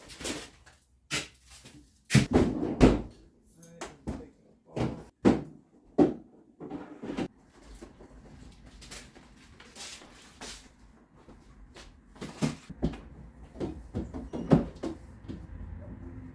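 A series of knocks and clunks from cupboard doors opening and closing and things being handled. The loudest, heaviest thuds come about two to three seconds in.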